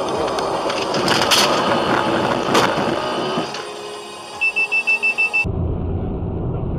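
Road noise with two sharp bangs about a second apart. Then comes a fast run of about eight high electronic beeps, and the sound switches abruptly to a low, steady engine rumble.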